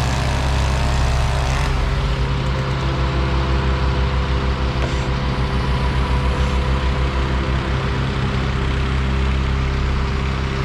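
A large engine running steadily at a constant speed, with a slight change in its sound about two seconds in.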